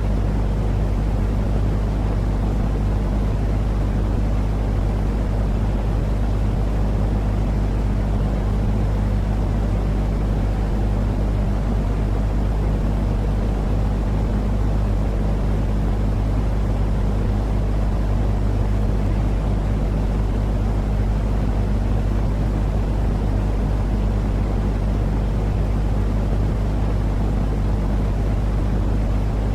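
Continuous white noise for baby sleep: an even, unchanging hiss that is heaviest in the deep bass, with a faint steady low hum running under it.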